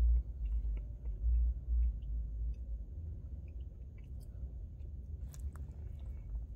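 A man chewing spoonfuls of banana pudding with vanilla wafers, with scattered small clicks of a plastic spoon scooping in a paper cup, over a steady low rumble.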